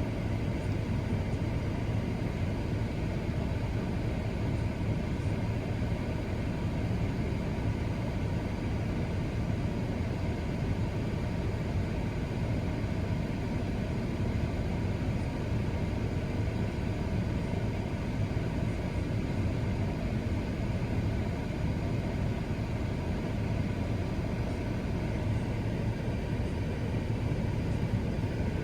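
Steady low hum of a truck idling, heard from inside its cab.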